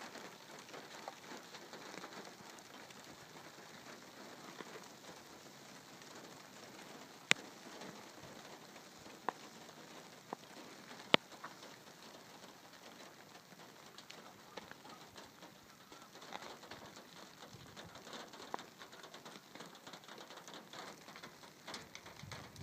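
Light rain pattering steadily, with a few sharp ticks standing out, the loudest about a third and halfway through.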